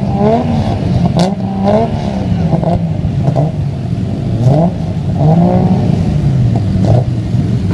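Performance car engines revved in repeated quick blips, the pitch rising and falling again every second or so, with a few sharp cracks.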